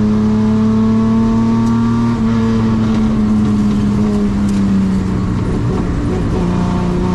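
Sports-racing car's engine heard from the cockpit on a hill climb run, running hard with its pitch creeping up, shifting about two seconds in, then falling away over the next few seconds and steadying near the end.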